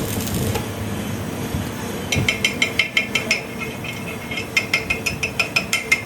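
Rapid hammer blows on steel, about six a second, each with a metallic ring. They start about two seconds in, pause for about a second, then resume. A hiss stops about half a second in.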